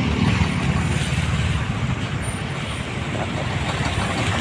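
Road traffic noise: a steady, uneven rumble of vehicles on the road.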